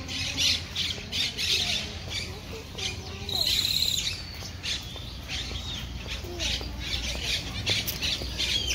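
Birds squawking and chirping over and over, with one louder, harsh call lasting about half a second a little past the middle.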